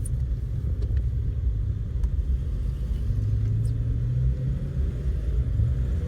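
1970 Dodge Dart Custom on the move, a steady low engine and road rumble, with the engine note growing stronger for a moment about halfway through.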